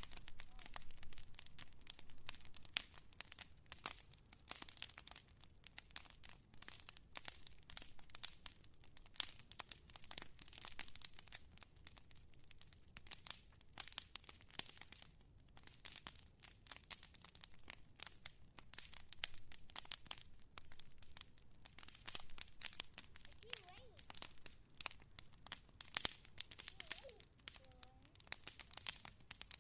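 Wood fire crackling: a dense, irregular stream of small pops and snaps, with a few sharper, louder pops. A couple of faint, brief whistling tones come about three-quarters of the way in.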